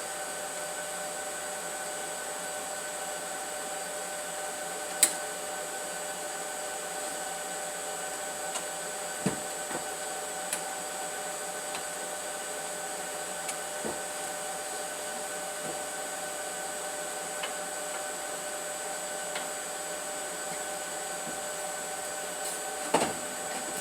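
Steady whir of an electric motor with a constant whine, with a few sharp knocks and clinks on top, the loudest about five seconds in and several more near the end.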